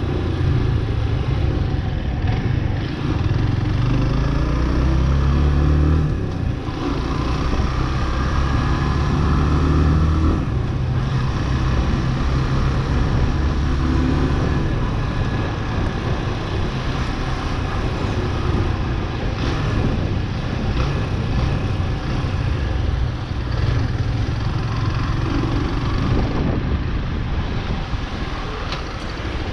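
Chopper Road 150cc motorcycle's single-cylinder engine running at road speed, heard from on board with wind and road noise over it. The engine note dips briefly around six and eleven seconds in. The engine is still being run in, with about 600 km on it.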